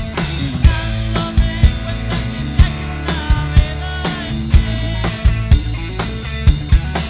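Rock band playing live, with bass, guitar and a drum kit keeping a steady beat of strong drum hits about once a second.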